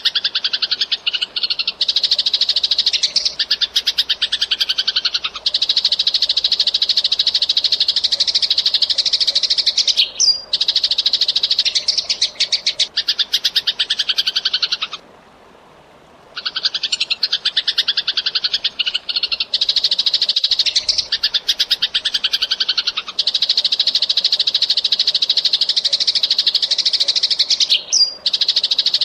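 Eurasian tree sparrow (burung gereja) chirping in a fast, unbroken run of rapid chirps, with a short break about halfway through before the same run starts again.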